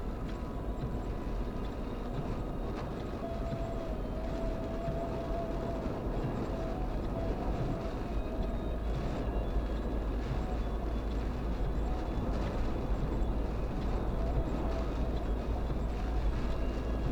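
Steady low rumble of a moving vehicle, with a faint wavering whine above it.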